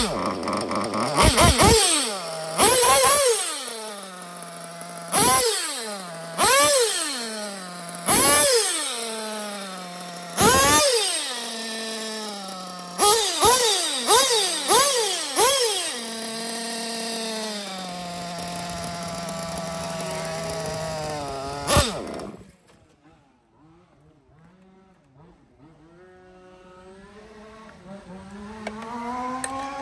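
Small nitro RC buggy engine (Nova X5B with an EFRA 2182 tuned pipe) being blipped: about a dozen sharp revs that rise and fall, then a steady idle. After one last blip it stops suddenly, and a faint engine sound builds up again near the end.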